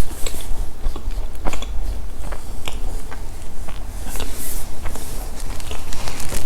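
Close-miked chewing and biting of crunchy chocolate snacks, with many small crackles in quick, irregular succession over a steady low hum.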